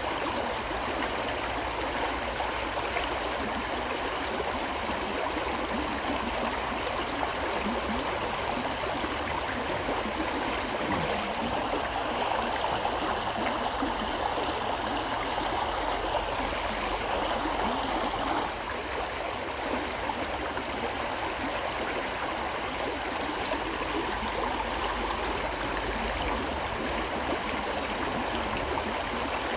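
A river flowing steadily over rocks, with a continuous rush and gurgle that eases slightly about two-thirds of the way through.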